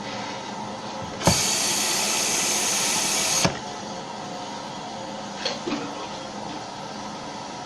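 Water hissing in a Kohler Wellworth toilet tank: a steady low hiss, broken by a louder, even hiss for about two seconds that starts and stops with a click, then two small clicks.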